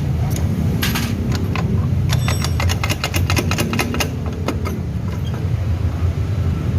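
Metal tools and parts clicking and clinking as a scooter's CVT is taken apart, with a quick run of clicks about two seconds in that lasts roughly two seconds. A steady low rumble runs underneath.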